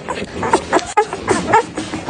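Recorded pig sound effect: a rapid string of short grunts and squeals.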